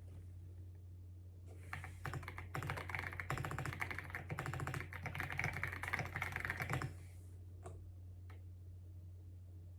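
Fast typing on a computer keyboard, a rapid run of key clicks lasting about five seconds that stops about seven seconds in, followed by a couple of single key taps. A steady low hum sits underneath.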